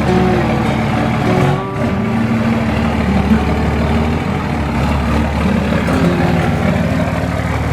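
Pickup truck engine running steadily, with a brief dip in level about two seconds in.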